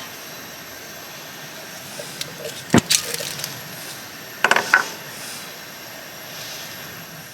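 A steady hiss with a few sharp metallic clicks and knocks: a pair about three seconds in and a short cluster near five seconds.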